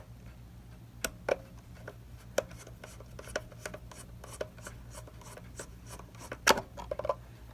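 Seth Thomas 89C clock movement ticking, about three ticks a second, with a few louder knocks and scraping from handling the case and screws. A steady low hum lies underneath.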